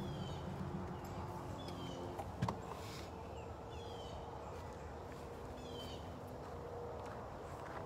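A bird calling with several short falling chirps over a faint outdoor background, with one sharp knock about two and a half seconds in.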